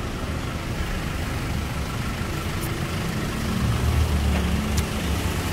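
Engine of a nearby motor vehicle idling steadily, a low hum that grows a little louder about three and a half seconds in, over the general noise of street traffic.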